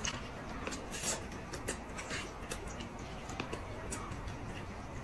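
Chewing and lip-smacking while eating roast chicken by hand: a string of short, sharp clicks and smacks as the meat is bitten, torn and chewed.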